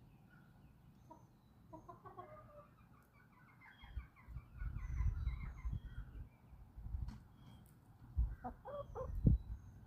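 Backyard chickens clucking, with a quick run of clucks in the middle and a cluster of louder calls near the end. Faint high chirps of small wild birds sound now and then, over bouts of low rumbling.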